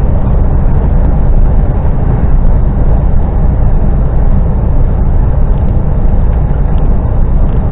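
Articulated lorry running on the road, heard inside the cab: a loud, steady rumble of engine and road noise.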